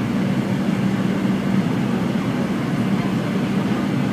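Steady cabin noise inside a Fokker 70 airliner in flight after takeoff: an even rush of air with the drone of its rear-mounted Rolls-Royce Tay turbofans and a steady low hum.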